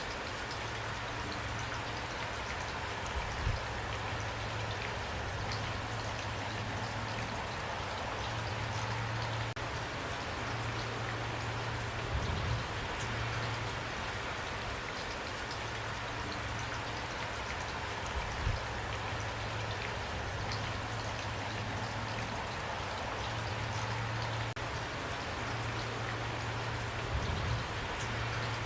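Steady rain falling on a surface, with a low hum that comes and goes and four brief low thuds spread through it.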